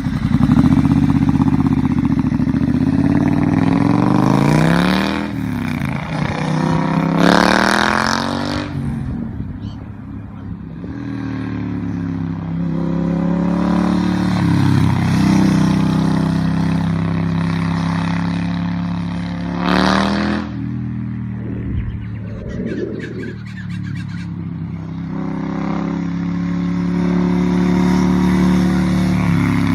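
Superbike engine running through its exhaust, idling with several sharp blips of the throttle where the revs rise and fall, the biggest a few seconds in and another about two-thirds of the way through.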